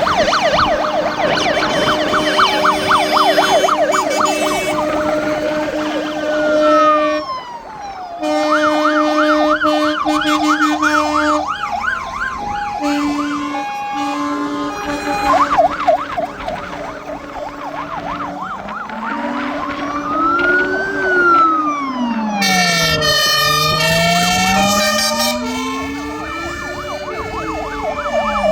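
Several fire engine sirens sounding at once: fast yelping warbles, slow wails that rise and fall, and steady held tones, all overlapping.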